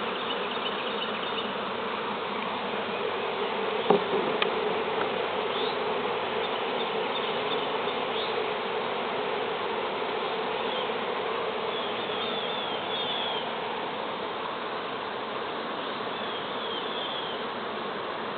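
A large honey bee swarm buzzing, a steady dense hum, with a single sharp knock about four seconds in.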